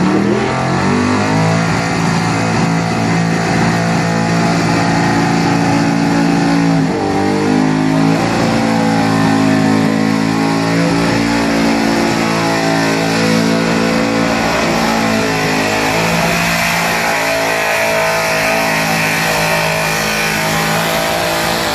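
Pickup truck engine at full throttle under heavy load, pulling a weight-transfer sled. The pitch climbs as the pull begins, sags and recovers briefly partway through, then holds high until the engine drops off at the end of the run.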